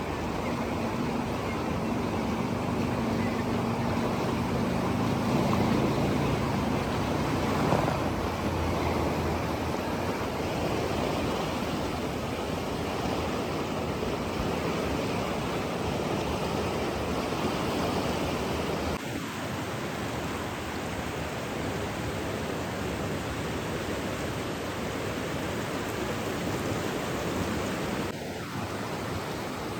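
Steady rushing water, an even noise with no distinct drops or splashes, that changes character a couple of times along the way.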